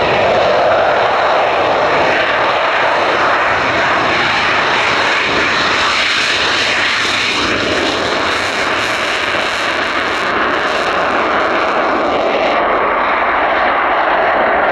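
Eurofighter Typhoon's twin jet engines running loud and steady close by, a full rushing noise with a thin high whine over it that fades out near the end.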